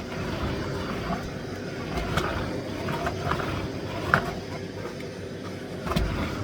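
Miele Blizzard CX1 bagless vacuum cleaner running steadily, with a few short knocks from the floor head about two, four and six seconds in.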